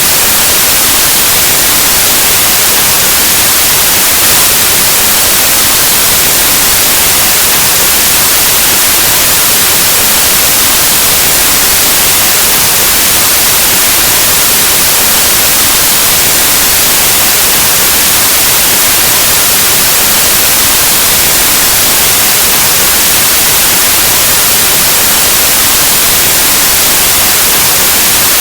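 Continuous white noise: loud, steady static hiss like an analog TV or radio tuned between stations, unchanging throughout.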